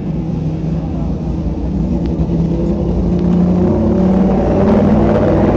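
Racing car engine running, its note rising in pitch and getting louder over the second half.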